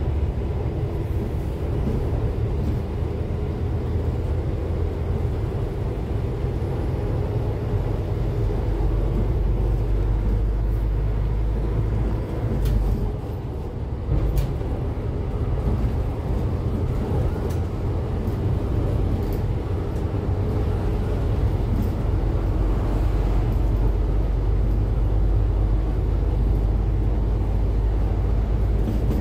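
Cummins ISF3.8 four-cylinder turbodiesel of a Daewoo Lestar bus running under way, heard on board as a steady low drone. About halfway through it briefly drops in loudness, with a couple of short knocks.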